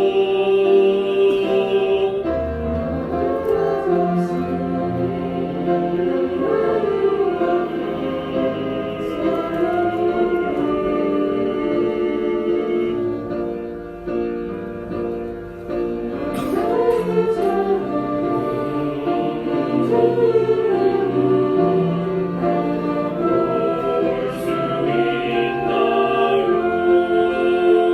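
Orchestra and choir performing a slow hymn: sustained instrumental lines with choral voices singing.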